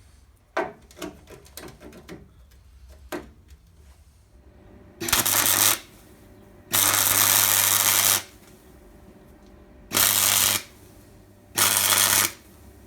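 A few light clicks and knocks, then an electric welder arcing in four short bursts of steady crackling buzz, each half a second to a second and a half long: tack welds fixing a small triangular steel patch into a Land Rover chassis rail.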